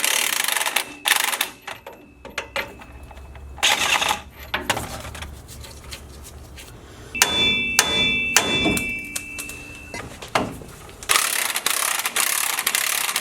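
Steel hand tools and truck suspension parts clanking, with several sharp knocks and a ringing metallic clang about halfway through. Near the end a dense, rapid clattering starts and keeps going.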